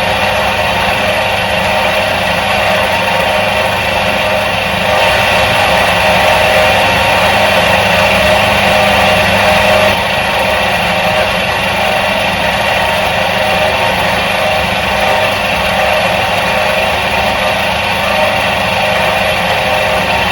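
Electric motor of a 1977 Soviet washing machine running with a steady hum and whirr, a little louder for about five seconds near the middle.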